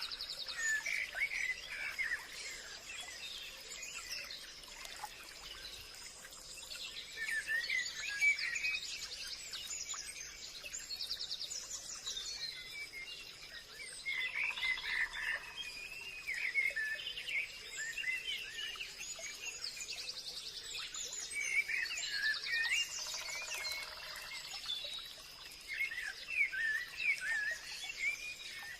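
Forest ambience: many birds chirping and singing in overlapping short calls and trills, over a steady high-pitched tone.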